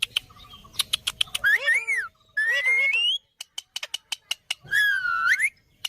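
Indian ringneck parakeet calling: three pitched, whistle-like calls that bend up and down, with runs of sharp clicks between them.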